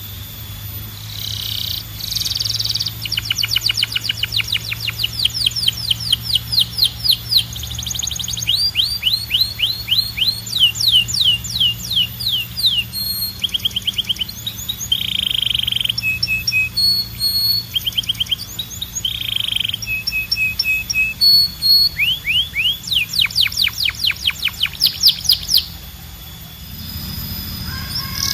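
Canary singing a long rolling song: fast runs of identical high, down-sweeping notes that switch to a new phrase every second or two, with short buzzy notes in between. The song breaks off briefly near the end.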